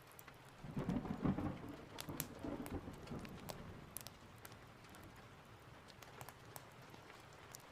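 A roll of thunder rumbles in about a second in and fades over the next few seconds, over steady rain. Scattered sharp crackles run throughout, like a wood fire crackling.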